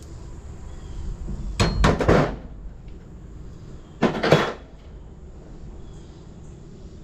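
Two loud clattering knocks of hard objects, about two and a half seconds apart, each lasting around half a second; the first has a brief metallic ring.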